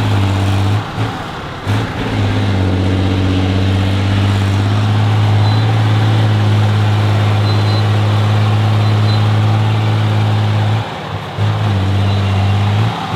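Heavy off-road trial truck's engine running hard at steady revs, with its note breaking off briefly a few times near the start and again about eleven seconds in.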